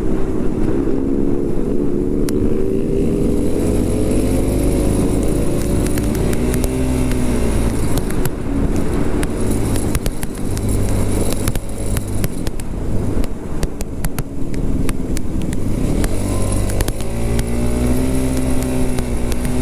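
Motorcycle engine running steadily while riding, its pitch slowly rising and falling with road speed, over a low rumble of wind on the helmet microphone.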